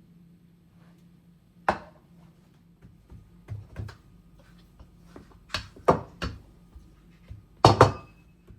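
A series of sharp knocks and thuds, some in quick pairs, the loudest a double knock near the end, over a faint steady low hum.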